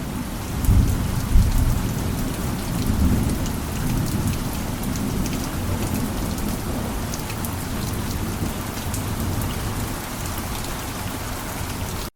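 Heavy rain falling steadily, with many separate drops ticking through the hiss, over a low rolling thunder rumble that is strongest in the first few seconds.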